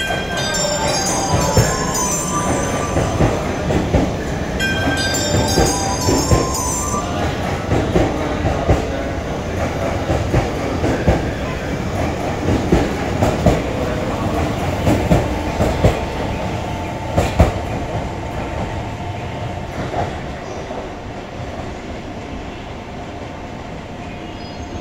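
E653-series electric train passing along a station platform, its wheels knocking steadily over the rail joints. Two spells of pitched tones sound in the first seven seconds, and a thin high whine joins in the second half. The sound fades near the end as the train pulls away.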